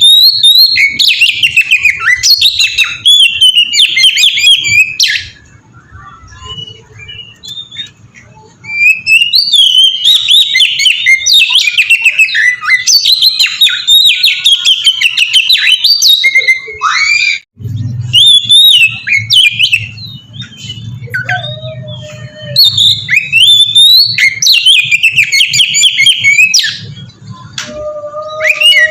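Oriental magpie-robin (kacer) singing a long, varied song of rapid whistled phrases and trills. It comes in three loud bouts with quieter stretches between, and a low hum runs under the second half.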